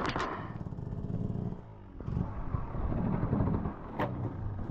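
Dirt bike engine running at low revs with an even pulsing note. It drops away briefly about two seconds in, then picks up again. A single sharp click comes near the end.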